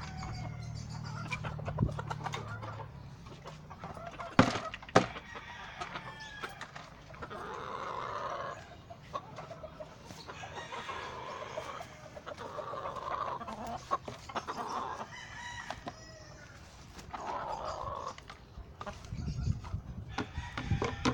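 Game fowl roosters crowing several times, with chickens clucking between the crows. Two sharp knocks stand out about four and five seconds in, the loudest sounds here.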